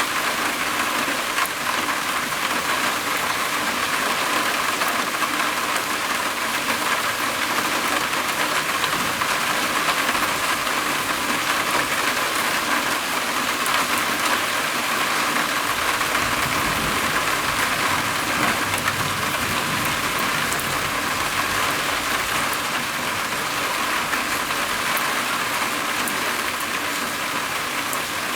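Rain falling steadily on a roof: an even, unbroken hiss that holds at the same level throughout.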